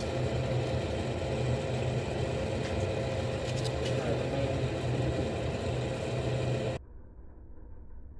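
A crab-fishing vessel's engine running with a steady drone and a strong low hum. It cuts off abruptly near the end, leaving only a faint, muffled low rumble.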